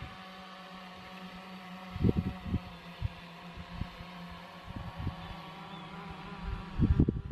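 DJI Phantom quadcopter's propellers humming steadily as it flies its orbit, with a few low thuds about two seconds in and near the end.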